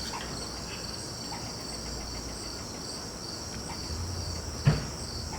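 Insects chirping steadily in the background, an even high-pitched trill. A single brief knock near the end.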